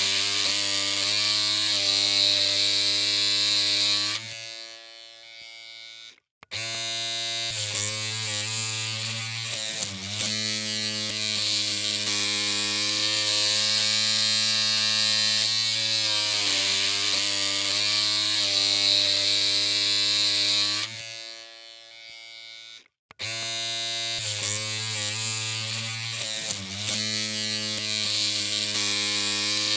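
Electric hair clippers humming steadily with a low buzz. The hum cuts out about four seconds in and starts again after about two seconds, and does the same again around the 21-second mark, with a brief wobble in pitch now and then.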